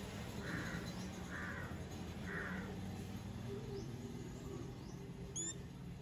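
Garden birds calling: three harsh, caw-like calls about a second apart, then a single short, high whistled chirp near the end, over a steady low background hum.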